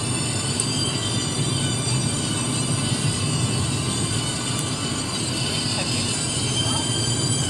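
Steady running noise of a moving truck heard from inside the cab: a constant low rumble of engine and road, with faint steady high whines over it.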